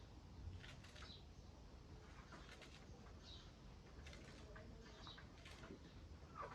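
Faint, scattered chicken calls with a few light clicks, close to silence.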